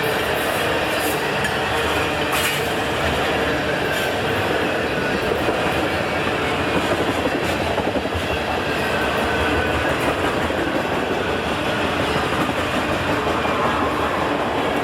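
CN freight train's cars rolling past right over the microphone at rail level: a steady rumble and rattle of steel wheels on the rails, with faint wheel squeal near the middle.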